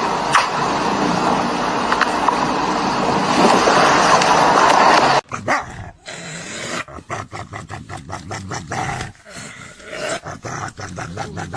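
A steady rushing noise with a couple of clicks, cut off suddenly about five seconds in, followed by a dog giving quick, short barks and growls.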